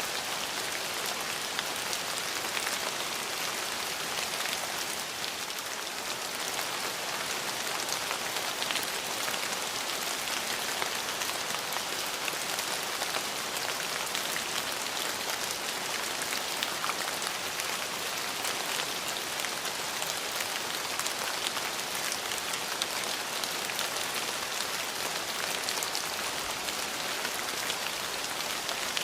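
Steady rain falling, with a dense patter of individual drops striking a surface; even and unbroken, with no thunder.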